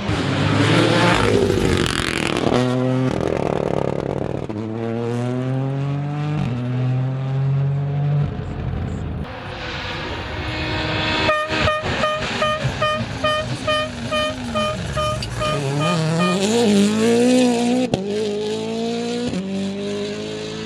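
Rally cars' engines revving hard and shifting gears, the pitch climbing and dropping in steps as they pass. From about halfway, a rapid series of short pulsing tones sounds over the engines for about five seconds.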